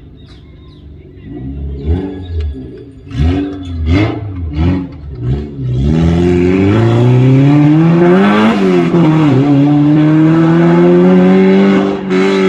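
Car engine blipped in several short revs, then held at high revs, loud, with its pitch climbing, dropping sharply once about eight and a half seconds in, then climbing again.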